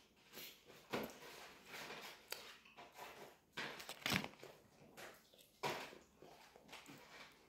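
Close-up sounds of a person eating french fries: chewing, with irregular sharp clicks and rustles as fries are picked out of a cardboard fry carton. The loudest comes about four seconds in.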